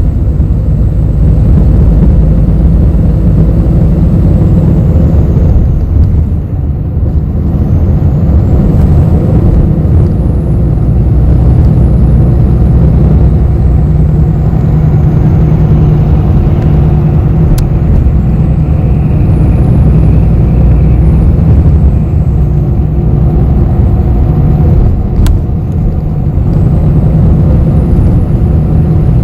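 Inside a moving city bus: a steady low engine and road rumble with a faint high whine rising and falling. The rumble eases briefly twice, and two sharp clicks come in the second half.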